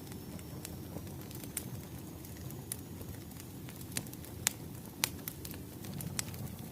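Wood fire crackling, a low steady rumble of flames with irregular sharp pops, the loudest a little past the middle.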